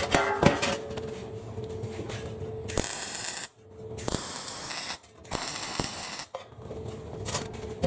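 Three short bursts of MIG welding on the steel fire pit panels, a hissing crackle each lasting about a second, about three seconds in, at four seconds and at five seconds, with light metal clicks and clatter around them.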